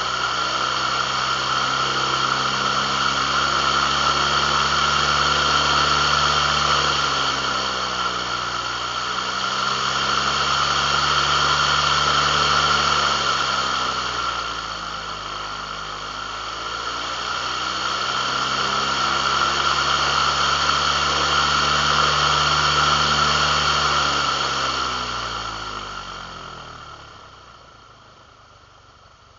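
A motor running steadily, its pitch sagging and recovering twice, then winding down near the end.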